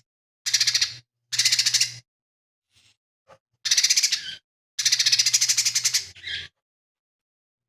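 Lesser green leafbird (cucak ijo mini) singing a string of short, very fast rattling phrases of repeated high notes, each about a second long, with silent gaps between them and a faint low hum under each phrase.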